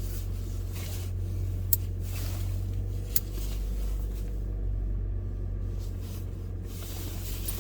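A steady low rumble, with two short faint clicks.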